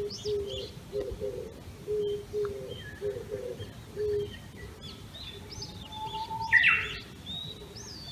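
Japanese bush warbler singing one "hoo-hokekyo" about six seconds in: a long, low whistle followed by a short, loud, higher flourish. Other small birds chirp throughout, and a low call repeats about twice a second through the first half.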